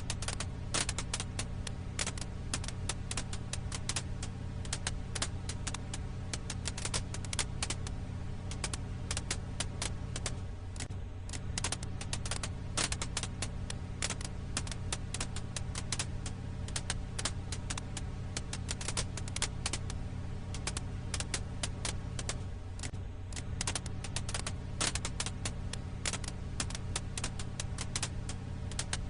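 Firewood crackling in a campfire: dense, irregular sharp pops and crackles over a steady low rumble. It is a looped recording that repeats about every twelve seconds.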